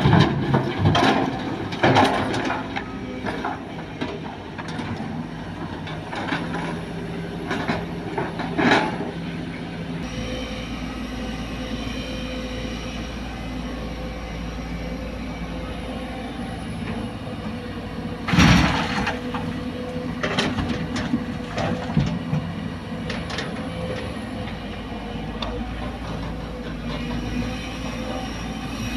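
Heavy diesel machinery of a Sumitomo excavator and dump trucks running steadily while soil is loaded, with clanks and knocks in the first few seconds and one loud rushing burst about two-thirds of the way in.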